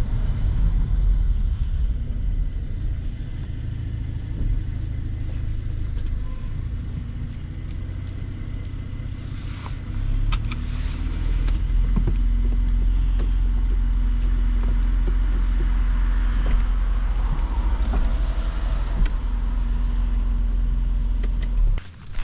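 Mercedes-AMG C43 engine and exhaust under way: a steady low drone that gets louder about ten seconds in, holds, then drops off sharply near the end.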